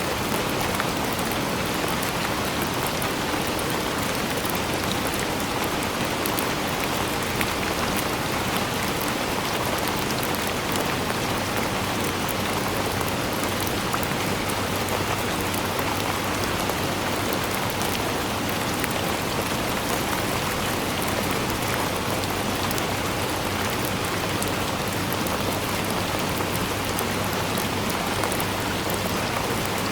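Steady rainfall, with many fine drops ticking on a surface over an even hiss.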